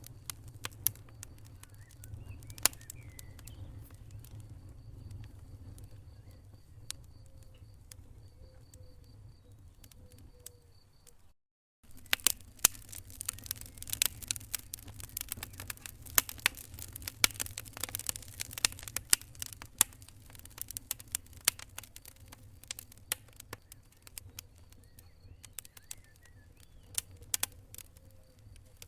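Wood fire crackling in a fireplace, with scattered sharp pops over a steady low rumble. It cuts out briefly about eleven seconds in, then returns with thicker, louder crackling.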